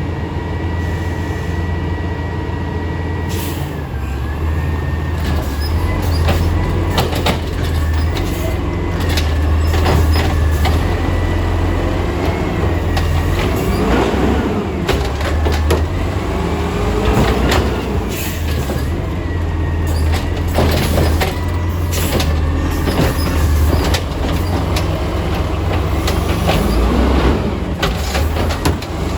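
Small automated side-loader garbage truck at work: its engine running steadily, with a steady high whine and repeated clanks and knocks as the lifting arm works.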